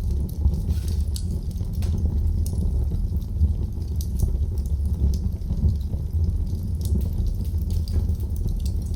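Wood fire burning in a fireplace, crackling with frequent small irregular pops and snaps over a steady low rumble.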